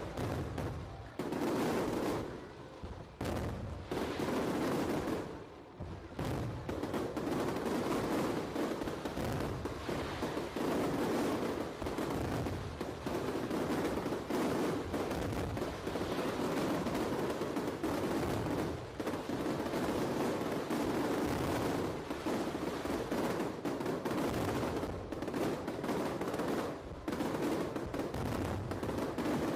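Aerial fireworks fired as a ceremonial salute, popping in a rapid barrage of bangs and crackles: a few separate bursts over the first six seconds, then continuous.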